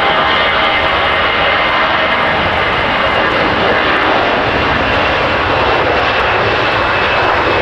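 Jet airliner's engines close by, loud and steady, with thin whining tones held over the noise.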